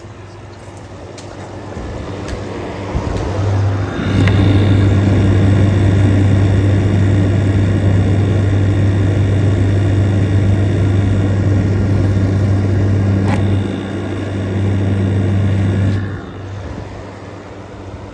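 Window air conditioner running in cool mode, its compressor and fan heard up close as a loud, steady low hum with a fainter whine above it. The hum builds over the first few seconds and drops away near the end.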